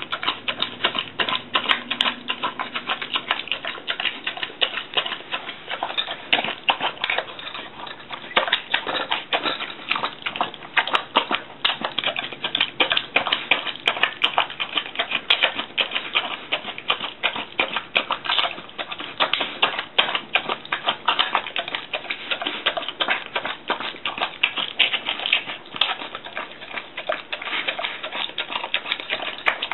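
Bull terrier eating natto rice: a continuous, irregular run of quick wet smacking and chewing clicks, many a second.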